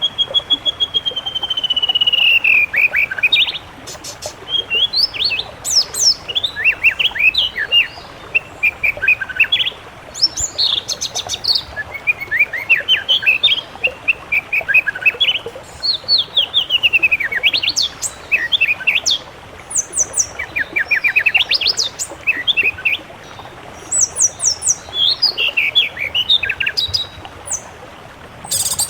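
Songbird song: a long held whistle that slides down at the start, then repeated phrases of quick trills and rising and falling sweeps, with short pauses between phrases.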